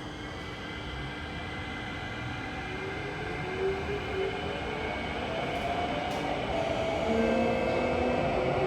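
Kawasaki–CRRC CT251 metro train running with a steady high-pitched tone over the rumble of the car. From about three seconds in, a set of whining tones climbs in pitch and the sound grows louder as the train gathers speed.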